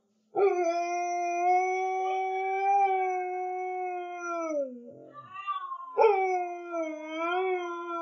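German Shepherd howling: one long, steady howl that sinks in pitch as it ends, then after a short break a second howl that wavers partway through.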